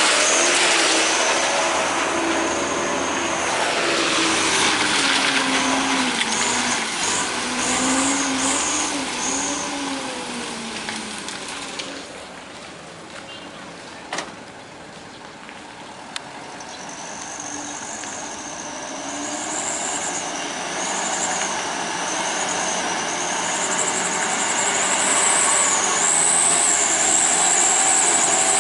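Heavy truck engines labouring, their revs rising and falling. The sound fades to its lowest about halfway through, then builds again as another truck comes closer. A high wavering whine runs over the engine sound.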